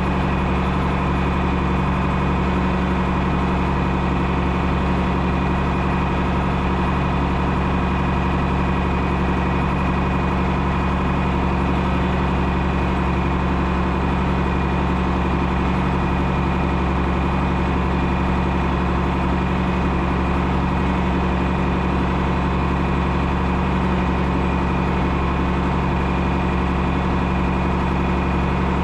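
A John Deere 6030 tractor's six-cylinder diesel engine running steadily at an even pitch and level.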